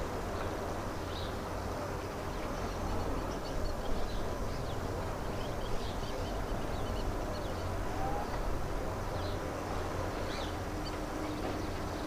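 Small birds chirping in short, scattered calls over a steady low hum of outdoor background noise.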